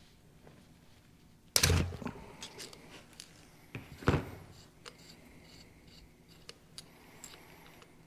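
Two sharp knocks, about a second and a half in and again near four seconds, with light clicks between: metal parts and tools being handled and set down while a diesel injection pump is stripped on the bench.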